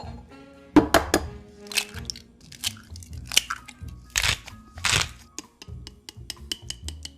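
Crisp food being bitten and chewed close to the microphone, an irregular series of sharp crunches that are loudest about a second in and again past the four-second mark, over background music.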